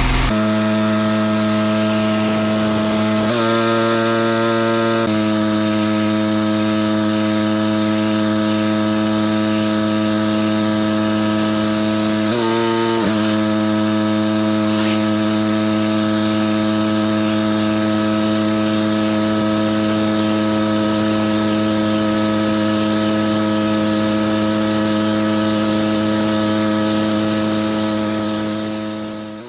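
Pressure washer running steadily with a hiss of high-pressure spray. Its motor note shifts pitch briefly twice, then the sound fades out near the end.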